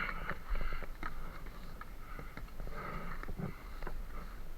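A person breathing and sniffing close to the microphone, in hazy rushes strongest at the start and again about three seconds in, with scattered faint clicks.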